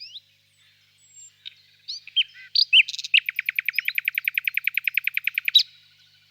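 Common nightingale singing: a few varied whistled notes, then a fast, rapidly repeated trill of about ten strokes a second for some two and a half seconds, ending on a loud final note.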